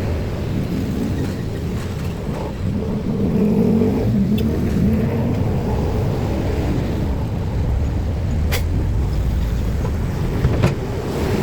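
Road vehicles passing with engines running as a steady rumble, one swelling louder a few seconds in. Two sharp clicks sound near the end.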